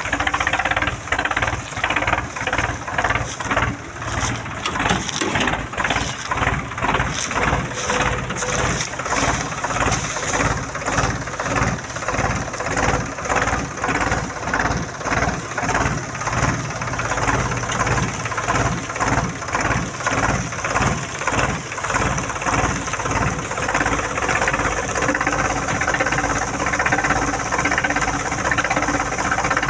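Swaraj 735 tractor's three-cylinder diesel engine running steadily with a regular pulsing beat.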